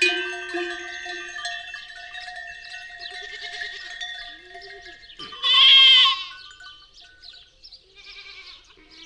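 Livestock bells ringing and dying away in the first second or so, then a flock bleating. One loud bleat comes about five and a half seconds in, and softer bleats follow near the end.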